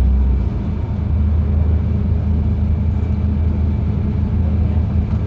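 LiAZ-5292.71 natural-gas city bus driving, heard from inside the cabin: a steady low engine drone with road rumble. The engine note shifts slightly about half a second in.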